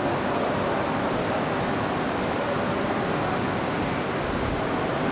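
E3 series 0 shinkansen, coupled to an E5, creeping slowly alongside the platform: a steady rushing hum from the train with faint steady tones under it.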